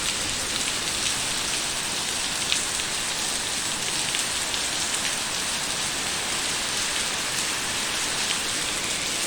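Steady rain falling, with drops pattering on surfaces; a calm, even downpour.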